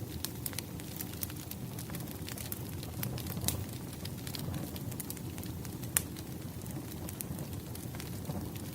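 Wood campfire burning with a steady low rush and frequent sharp crackles and pops of splitting logs, the loudest pop about six seconds in.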